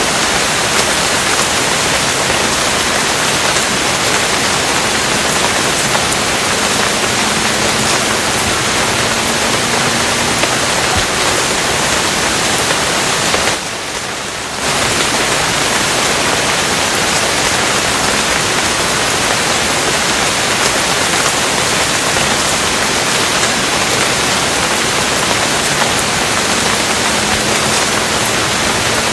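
Steady heavy rain, a dense even hiss, that drops in level for about a second halfway through.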